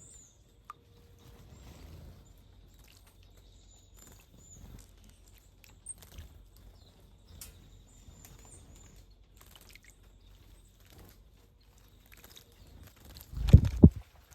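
Small wild birds at a bird bath: faint high chirps and light pattering and dripping of water, then near the end a loud brief burst of splashing and fluttering as a bird bathes.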